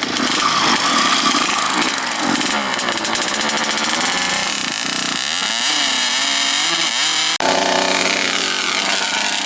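Dirt bike engine revving, its pitch rising and falling with the throttle. It breaks off abruptly about seven seconds in, then carries on at a steadier pitch.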